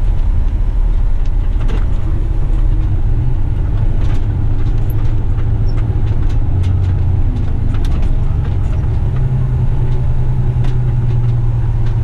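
Western Star dump truck's diesel engine running with a steady low drone, with scattered faint clicks and rattles; the drone strengthens and rises a little about nine seconds in.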